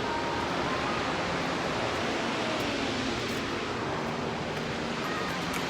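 Steady rushing noise of falling water from Salt Creek Falls, a large waterfall.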